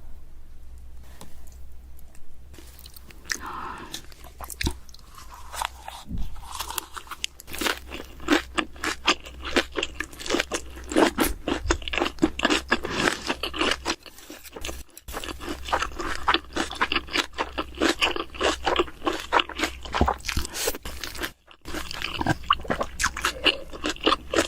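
A person chewing and crunching food close to the microphone, with dense, quick crunches after the first few quieter seconds, broken twice by short drop-outs.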